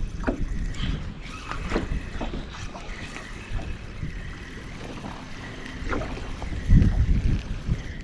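Wind buffeting the microphone in gusts, strongest near the start and again about seven seconds in, with scattered small clicks and knocks of fishing gear being handled.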